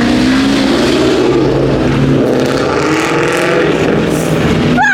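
Several car engines revving hard at the same time, their pitch rising and falling over a constant loud rumble.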